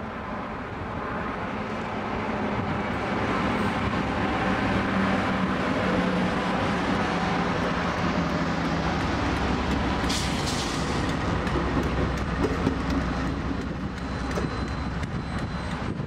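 A short train of an electric locomotive, a flat wagon and a diesel locomotive rolling past, a steady rumble of engines and wheels on rail that grows louder over the first few seconds. A short hiss comes about ten seconds in.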